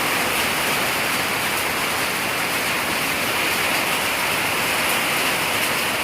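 Heavy rain pouring steadily in a severe thunderstorm, a dense unbroken hiss.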